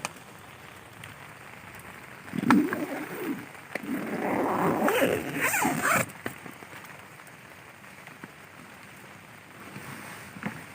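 A tent zipper being pulled, with a short pull about two seconds in and a longer, louder one from about four to six seconds. Steady rain hisses on the tent throughout.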